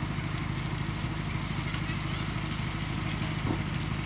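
Heavy machine's diesel engine running steadily at low revs, with a few faint clicks and knocks over it.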